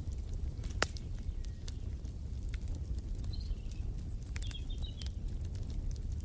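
Wood fire crackling in a fireplace over a steady low rumble, with scattered pops and one sharper snap about a second in. Faint bird chirps come twice around the middle.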